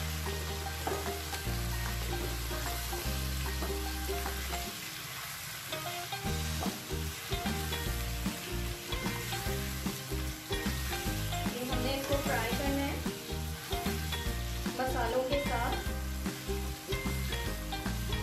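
Sliced potatoes sizzling in hot oil as they are stirred and turned with a slotted spatula in a nonstick pan, the just-added spices being kept moving so they do not burn. Background music with low notes that change in steps plays underneath.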